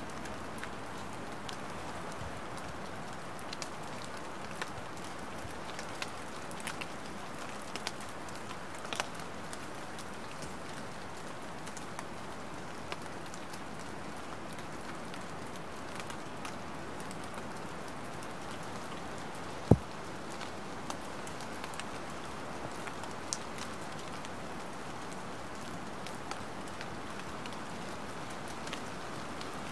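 Light rain falling steadily, with scattered drops ticking. One loud, low thump stands out about two-thirds of the way through.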